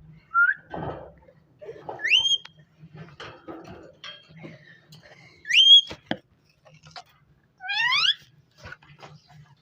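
Ringneck parrot vocalizing: two short, loud rising whistles about two and five and a half seconds in, a harsher rising call near the end, and soft chattering in between.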